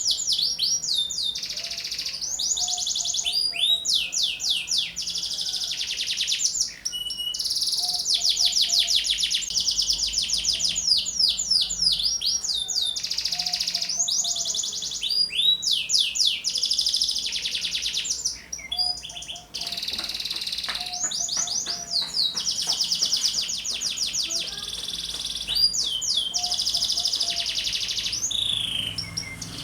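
Domestic canary singing continuously in fast, high trills and rolling phrases, with short breaks between phrases.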